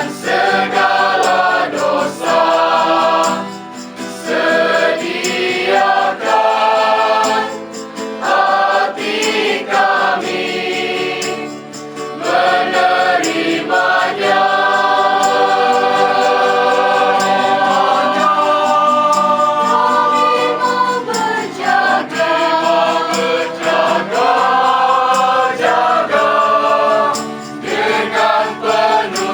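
Group of voices singing in harmony, a choir-like song with long held notes between shorter phrases.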